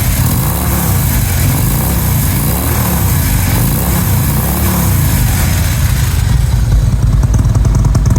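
Stage 1 Harley-Davidson Electra Glide Ultra's V-twin engine running through Vance & Hines Monster Oval mufflers, slightly warmed up, a loud steady rumble. The note rises and falls gently in the first few seconds and turns more evenly pulsing about six seconds in.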